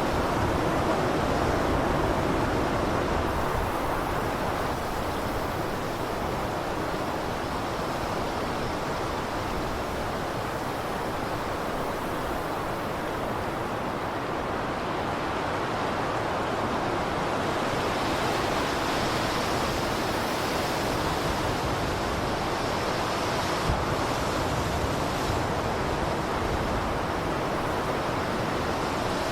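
Blizzard wind blowing steadily, a dense rushing noise that slowly swells and eases without any gaps.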